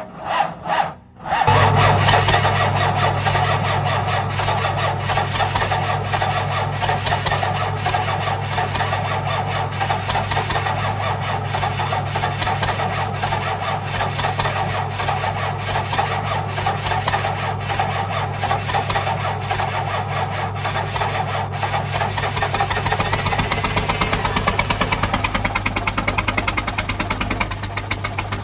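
12-valve Cummins 5.9 L inline-six diesel cold-starting without a block heater or grid heater: a second or so of short bursts, then it catches about a second and a half in and runs steadily, its firing heard as rapid, even knocks.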